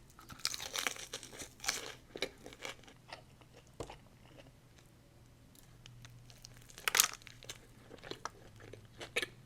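Close-up chewing and crunching of crispy breaded fried chicken tenders, irregular crackles and clicks of the breading between the teeth, thinning out midway, with one louder crunch about seven seconds in.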